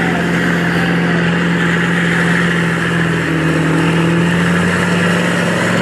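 Big mud trucks' engines running at high revs, held steady under full load during a truck tug-of-war pull.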